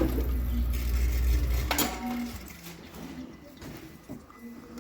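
Maruti Swift's petrol engine switched off: the running sound cuts out at once and a low rumble dies away over about two seconds. Then come faint scattered clicks and metallic clinks.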